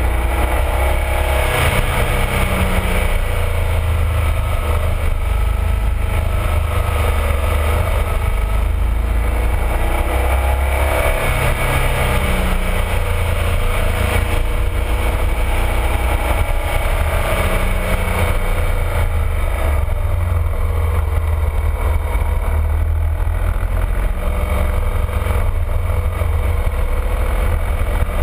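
BMW R1200RT motorcycle's boxer twin engine running under way, its pitch rising and falling several times as the rider accelerates and eases off.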